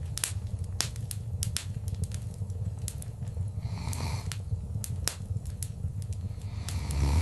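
Wood fire crackling in a fireplace: irregular sharp pops and snaps over a steady low rumble of flames, with a short hiss about four seconds in.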